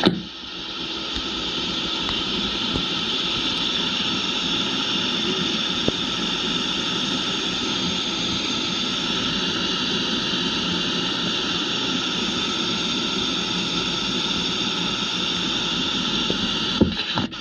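Tour speedboat's engine running steadily at speed, with rushing water and wind noise.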